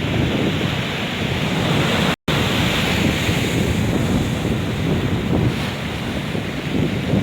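Black Sea storm surf breaking on the shore, with strong wind buffeting the microphone. The sound drops out completely for an instant about two seconds in.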